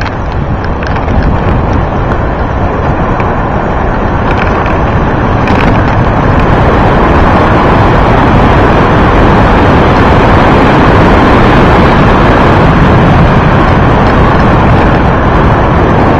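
Wind rushing and buffeting over the microphone of a camera riding on a bicycle speeding downhill; a steady roar that grows louder over the first several seconds as the bike picks up speed, then holds.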